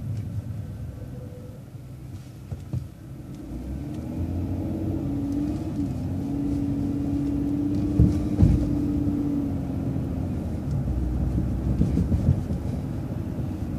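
City transit bus running and pulling away, its low rumble growing about four seconds in. A steady whine runs from about five to ten seconds in, and two sharp knocks come about eight seconds in.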